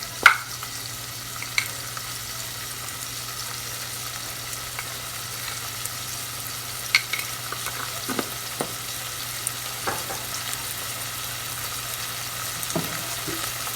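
Onions, capsicum and chillies sizzling in oil and sauce in a pan, a steady hiss, with a few sharp clicks of a utensil against the pan as the mixture is stirred.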